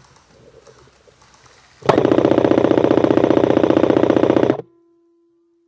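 Electric airsoft M4 firing one long full-auto burst of rapid, evenly spaced shots, heard right at the gun. It starts about two seconds in, lasts about two and a half seconds and cuts off abruptly.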